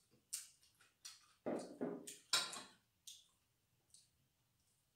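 Close-up mouth sounds of eating with the hands: wet chewing and lip smacks, about seven short ones, the loudest about a second and a half and two and a half seconds in.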